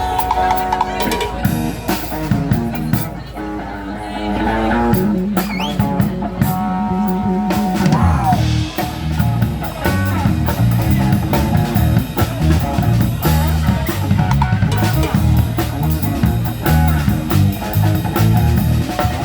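Live band playing instrumentally: guitar over sustained notes, then drum kit and bass come in with a steady groove about eight seconds in.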